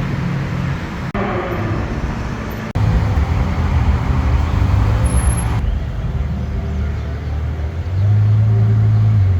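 Ferrari sports car engines running at low revs with a deep, steady note. The sound breaks off abruptly twice in the first three seconds, and the engine note grows louder about eight seconds in.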